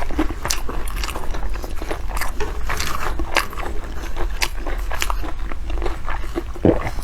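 A person biting and chewing food close to the microphone: irregular clicks and crunches of mouth sounds, over a steady low hum.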